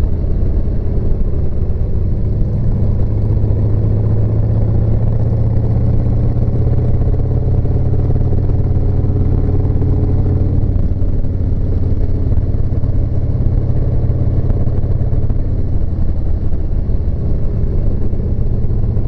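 Harley-Davidson V-twin motorcycle engine running at a steady cruising pace, with a steady low drone throughout.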